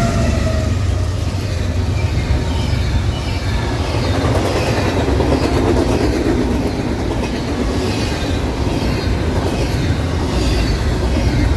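Intermodal freight train's cars rolling past: a steady heavy rumble of steel wheels on rail, with regular clicking as the wheel sets cross rail joints.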